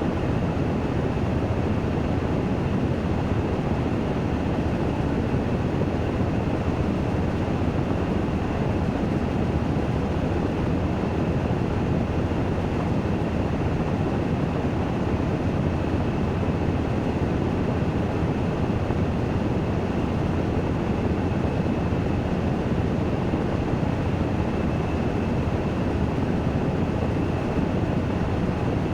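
Washing machine in its spin-dry cycle, the drum spinning at a steady speed: an even low rumbling whir with a faint high whine held on top.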